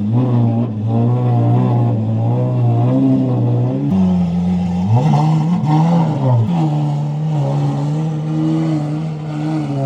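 A car engine running loud with the throttle worked up and down, its pitch wavering, with two quick revs rising and falling about five to six seconds in.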